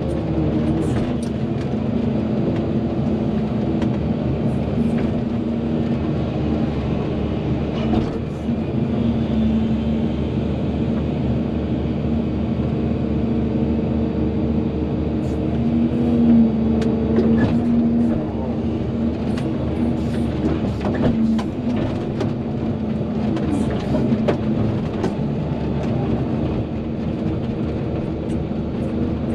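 Volvo EC220DL excavator's diesel engine running steadily under working load, with scattered clanks and knocks, briefly louder about two-thirds of the way through.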